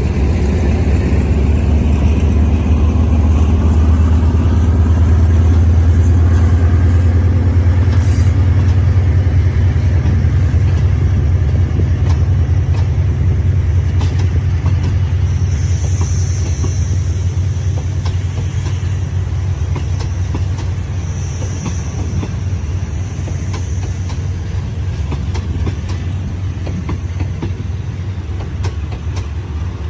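Diesel train running through the station: a heavy low rumble that swells in the first several seconds and then slowly fades, with the clickety-clack of wheels over the rails.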